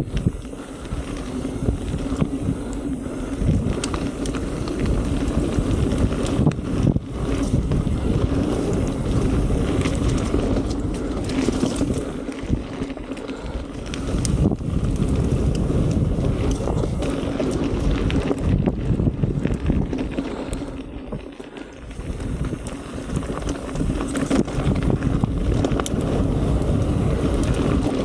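Wind buffeting a chest-mounted camera's microphone as a mountain bike rolls along a dirt trail, with tyre noise and frequent knocks and rattles from the bike going over bumps and roots. It eases off briefly about three quarters of the way through.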